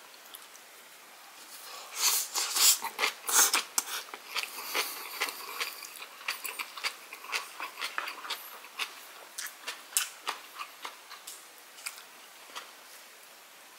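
Close-up chewing of a mouthful of white rice wrapped in napa cabbage kimchi: a dense run of sharp mouth clicks about two seconds in, then sparser chewing clicks that thin out near the end.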